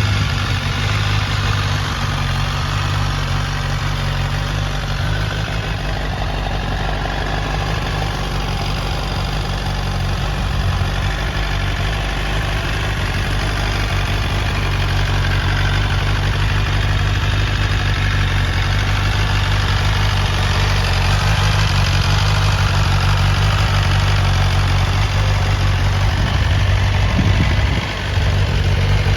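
BMW S1000RR's inline-four engine idling steadily, with a brief dip in level near the end.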